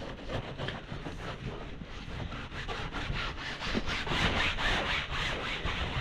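Rapid, rhythmic rubbing strokes of household cleaning, about four a second, a little louder from about four seconds in.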